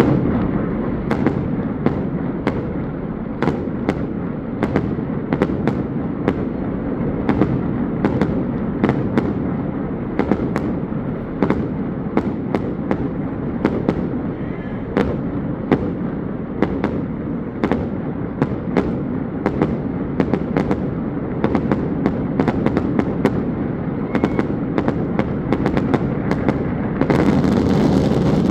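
Fireworks bursting in a steady run, sharp bangs about one or two a second over a constant background rumble, with a louder hiss building near the end.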